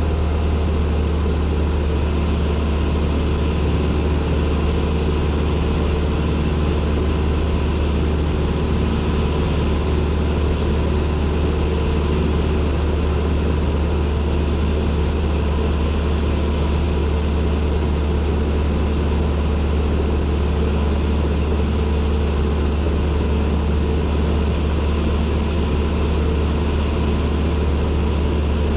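Cessna 172N's four-cylinder Lycoming engine and propeller in cruise, a loud, steady drone that does not change, heard inside the cockpit.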